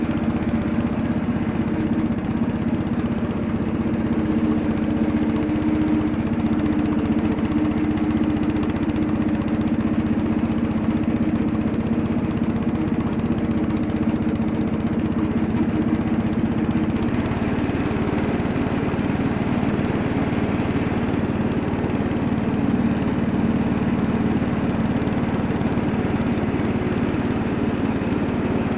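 Bolens 1256 garden tractor engine running steadily shortly after a cold start. Its even note shifts and grows rougher about seventeen seconds in.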